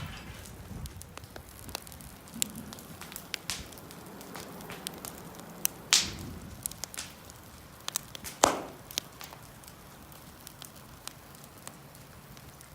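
Wood fire crackling, with irregular sharp pops and snaps and two louder snaps about six and eight and a half seconds in.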